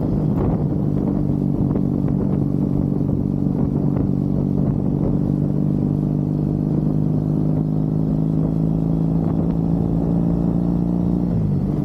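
Triumph Bonneville parallel-twin engine pulling at steady revs while riding, heard close on the bike, then the revs dropping near the end.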